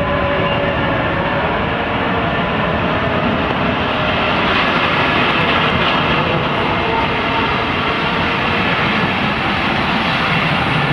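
Passenger train running close by: a loud, steady rumble of the carriages on the track.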